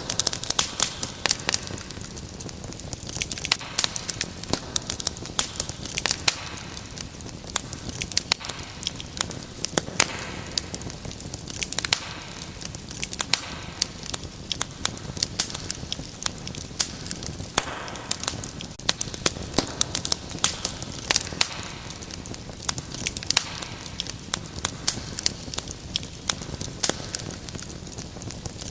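Wood fire crackling, with many quick irregular pops and snaps over a soft steady hiss.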